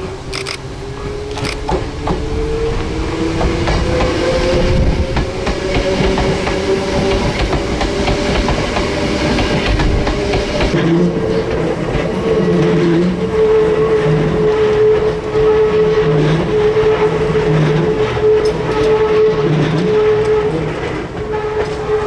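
Hakone Tozan Railway electric train running close by. A whining tone rises in pitch over the first several seconds, then holds steady through the rest, over a low rumble and scattered clicks.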